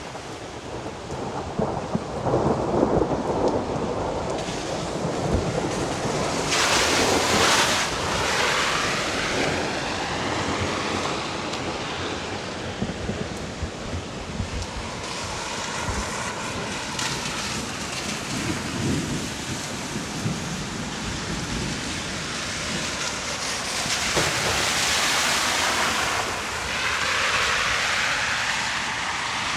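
Heavy rain falling steadily in a thunderstorm, with rolls of thunder rumbling. The downpour surges louder twice, about a third of the way in and again near the end.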